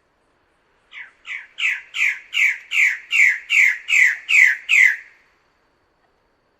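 Bird-of-paradise calling: a series of about eleven harsh, downward-sliding notes at roughly two and a half a second, building in loudness and then stopping abruptly.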